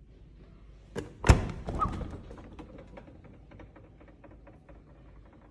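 Items being handled and set down while a fridge is restocked: a knock, then a loud thud about a second in, followed by a short rattle and a run of light taps and clicks that fade away.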